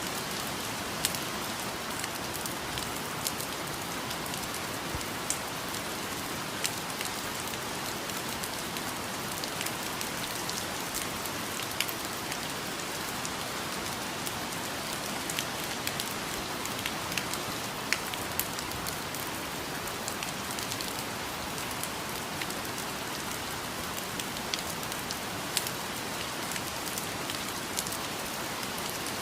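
Steady rain falling in a rainforest, a constant hiss with scattered louder individual drops pattering on leaves and surfaces.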